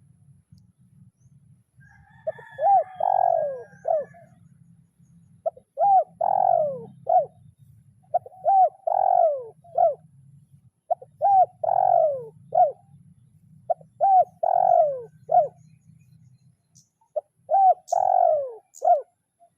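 Spotted dove cooing its territorial call, the kind used to challenge a rival: the same short phrase of quick rising-and-falling coos around a longer middle note, repeated six times about every three seconds.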